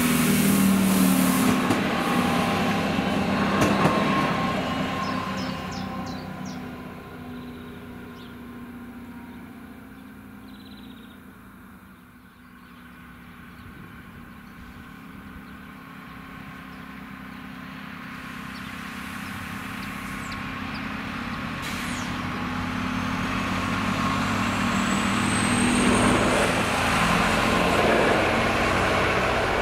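A regional diesel railcar runs past the level crossing at the start, its engine and wheels fading away over several seconds. Later a second pass of the same type of railcar comes on, growing steadily louder as it reaches the crossing, with a thin rising whine near the end.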